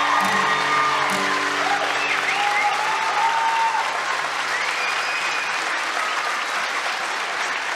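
Audience applauding as the band's last held chord fades out a few seconds in.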